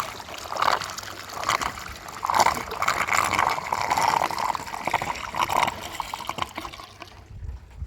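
Water splashing and trickling in irregular spurts, dying away about seven seconds in.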